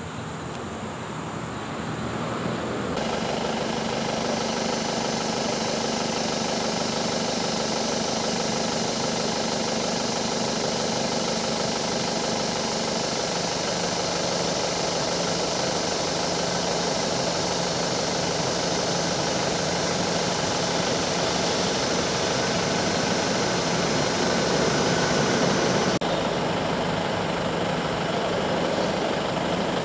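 A vehicle engine idling: a steady hum that swells over the first few seconds and then holds level.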